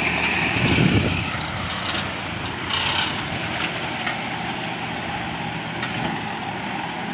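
Toyota Land Cruiser hardtop's engine running steadily as the vehicle drives, with a brief louder low rumble about a second in.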